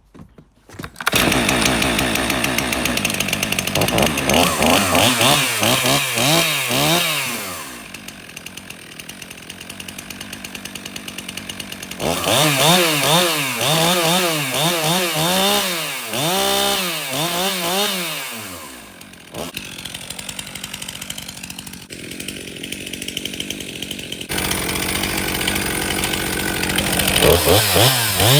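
Stihl MS362 M-Tronic two-stroke chainsaw fires within the first second and is test-run: the throttle is blipped up and down over and over in two spells, dropping back to a lower idle between them, then held at a steady higher speed near the end.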